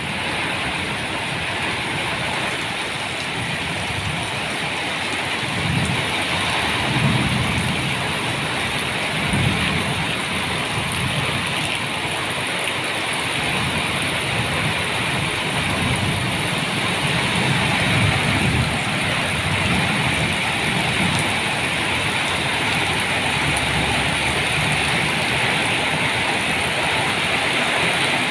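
Steady rain falling in a thunderstorm, an even hiss throughout, with low thunder rumbles swelling a few times.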